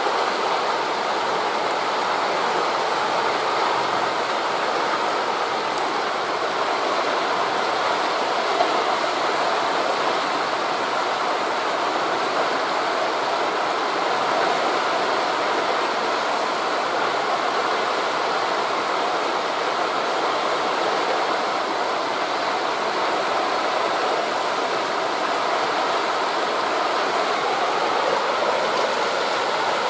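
Steady, even rushing of waves breaking on a beach blended with wind through the leaves of trees, with no distinct individual sounds apart from one brief tick about eight seconds in.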